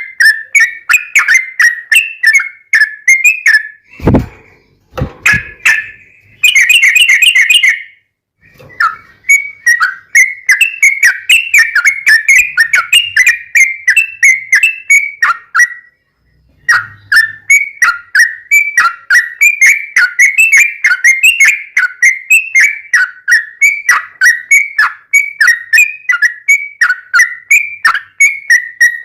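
A yellow-vented bulbul (trucuk) sings a fast, unbroken run of short whistled notes, pausing briefly twice. About six and a half seconds in, a louder, harsher burst of song lasts about a second. A dull thump comes about four seconds in.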